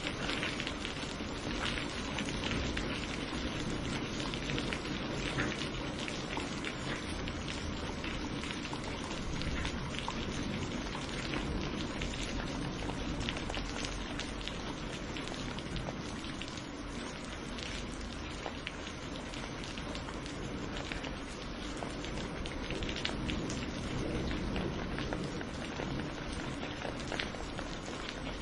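Steady rain falling hard, an even hiss with countless drops pattering on a surface.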